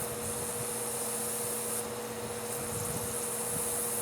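Steady hiss of spray being forced through a blocked passage in a carburetor as it is cleared out, fading for a moment a little under two seconds in, then stopping suddenly, with a steady hum beneath.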